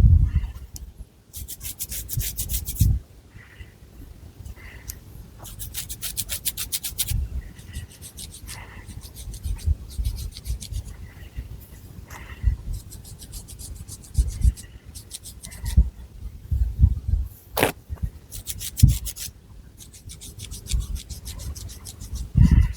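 Long fingernails scratching through thick hair and across the scalp. The scratching comes in bursts of quick strokes, each lasting a second or two, with soft rubbing thuds from hair moving against the microphone and one sharp click about two-thirds in.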